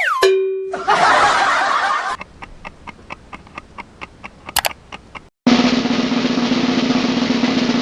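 A string of cartoon sound effects: a quick falling whistle, a short noisy whoosh, then rapid ticking for about three seconds. After a brief break, a snare drum roll starts at about five and a half seconds and keeps going.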